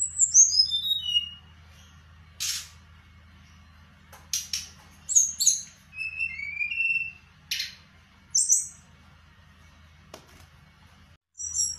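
Songbird singing actively: a quick run of whistled notes falling in pitch, sharp scratchy chatter, short rising and falling whistles and high buzzy notes, with pauses between phrases. A steady low hum lies beneath.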